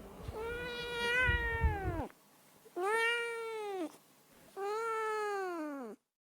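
Domestic cat meowing three times, each meow a second or more long, holding its pitch and then dropping at the end.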